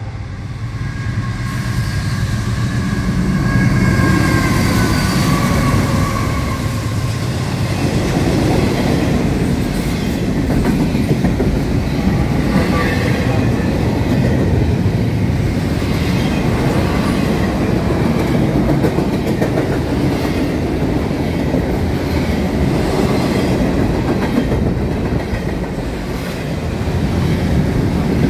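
Norfolk Southern double-stack intermodal freight train passing close by. It grows louder over the first few seconds as it arrives, then holds a steady, loud rumble and clatter of steel wheels on the rails as the container well cars roll past.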